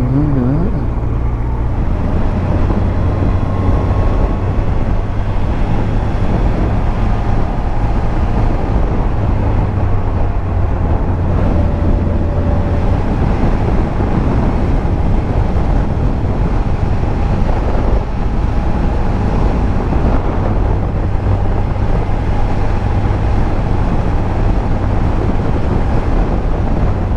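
2001 Yamaha FZS1000 Fazer's inline-four engine running steadily while riding, mixed with wind rush on the microphone.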